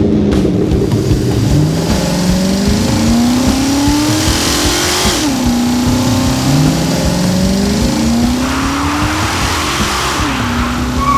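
Car engine accelerating hard through the gears. The engine note climbs slowly and drops back at each upshift, twice, with a hiss of tyre noise over each climb.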